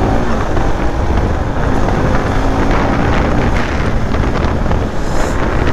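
Wind buffeting the microphone on a moving motorcycle, with the engine's note faintly underneath and rising a little in pitch near the start.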